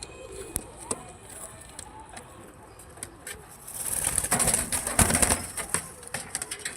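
Pair of Ferozpuri pigeons cooing, with scattered sharp clicks and a loud rustling burst lasting about two seconds from roughly four seconds in.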